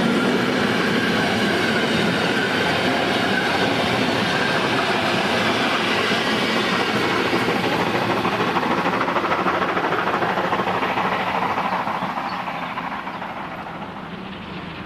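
A train running past on the track, its wheels clattering over the rail joints; the sound fades over the last few seconds as it moves away.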